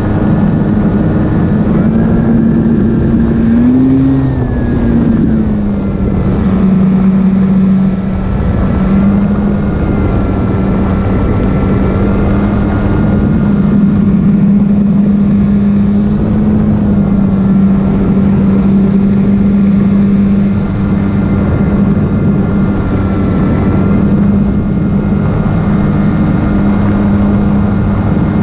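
Electric motor and propeller of an E-flite Carbon-Z Cub SS RC plane running steadily under power, with a continuous rush of air. The pitch rises and falls briefly about four seconds in, then holds, shifting only slightly with throttle.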